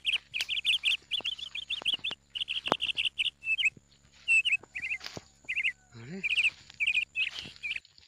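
A bird singing: short phrases of quick, high chirps repeated over and over.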